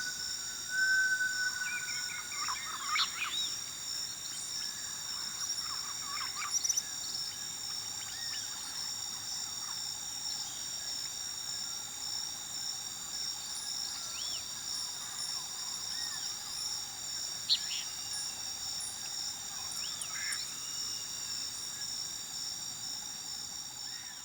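Steady, high-pitched chorus of night insects such as crickets, with scattered short bird chirps and whistles over it, easing down near the end.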